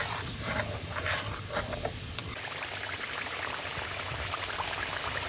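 Tomato purée frying in hot oil in a pan, sizzling steadily with light crackles, as a steel spoon stirs and scrapes through it a few times in the first two seconds.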